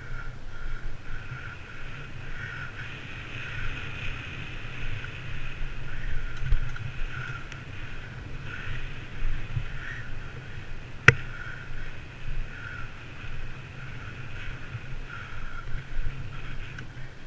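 Wind buffeting the microphone and a steady rolling noise from a bicycle being ridden, with one sharp click about eleven seconds in.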